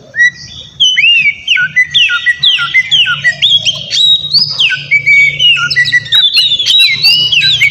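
Oriental magpie-robin (kacer) singing energetically, a fast unbroken run of loud whistled notes that slide up and down, with a steady low hum underneath.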